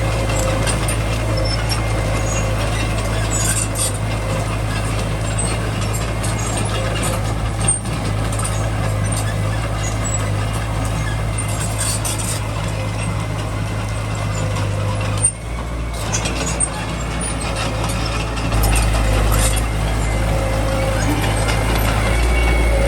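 Small bulldozer's diesel engine running steadily under work, with scattered light squeaks and clicks over it. About two-thirds of the way through the note changes abruptly, and the deep hum grows heavier near the end.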